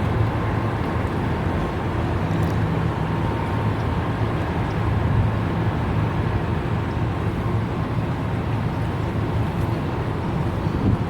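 A river tour boat's motor running steadily under way: a constant low hum over an even rush of noise.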